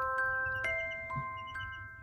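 Background music of glockenspiel-like chime notes, struck one at a time about every half second and left ringing, fading gradually. Faint high cheeping of chicks sits underneath.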